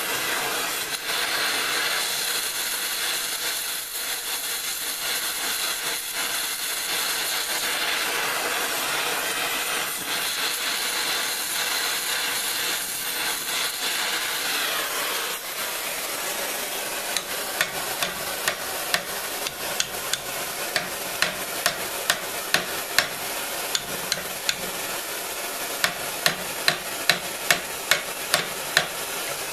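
Oxyacetylene torch hissing steadily as it heats the steel pipe. From about halfway on, hammer blows sound at roughly one to two a second, driving the heated pipe down onto itself to collapse it into a bamboo-like joint.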